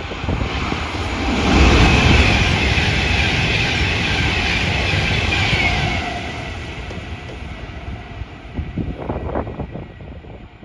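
A train passing at speed: a heavy rumble swells to its loudest about two seconds in, with a high whine that falls in pitch as it goes by, then dies away over the last few seconds.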